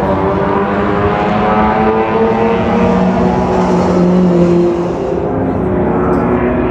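Historic racing car engines running hard at high revs, a steady multi-tone engine note that drops away in level about five seconds in as the cars pull away.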